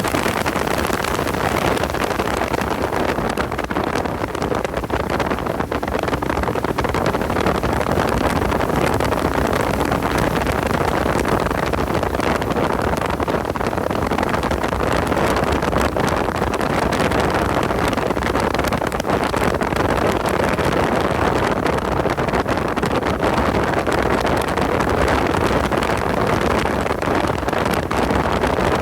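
A car running hard at speed, its engine noise mixed with heavy wind rush on the microphone, steady throughout.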